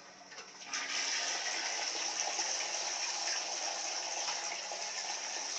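Dual-flush toilet flushing, water rushing steadily out of the cistern as a test of the newly adjusted flush water level.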